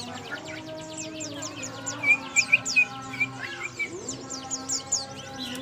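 Songbirds chirping and chattering in quick, overlapping runs of short downward-sweeping notes, with a burst of louder chirps about two seconds in.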